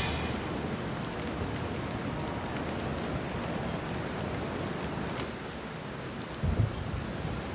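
Steady rain falling as an even hiss, with a brief low rumble of thunder about six and a half seconds in.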